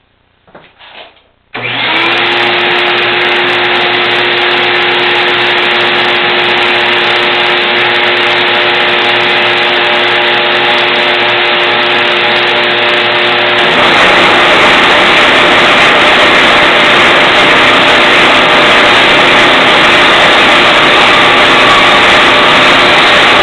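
A 12-inch Craftsman band saw switched on after a few small knocks, its motor coming up to speed and running with a steady hum. Around two-thirds of the way in the sound grows louder and rougher as the 3/16-inch blade starts cutting a circle in a 3/4-inch board.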